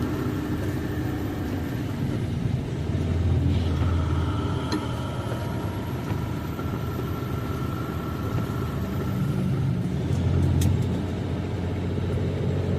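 Semi-truck engine and road noise heard inside the cab while driving, a steady low rumble with a faint held whine through the middle and a few short clicks.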